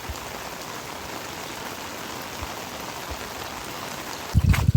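Steady hiss of water, either rain or running floodwater, with a few loud low thuds near the end.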